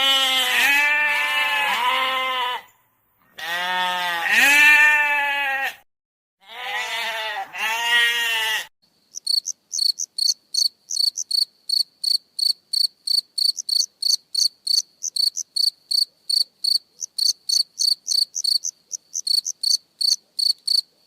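Goats bleating, three long wavering bleats one after another, then from about halfway in a cricket chirping steadily at about three to four chirps a second.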